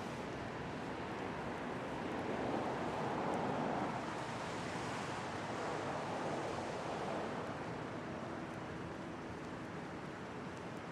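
Steady rushing air-and-machinery ambience of an empty underground passage. It grows louder for a few seconds in the middle, then eases back.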